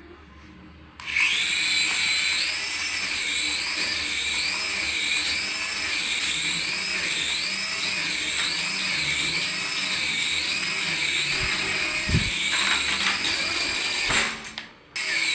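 Battery-powered toy running: a small electric motor whirs under an electronic warbling siren-like tone that repeats about twice a second. It starts about a second in, cuts out briefly near the end, and starts again.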